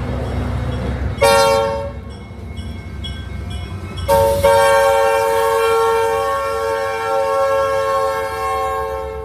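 Locomotive air horn sounding over a train's low rumble: a short blast about a second in, then a long blast held about five seconds that cuts off suddenly.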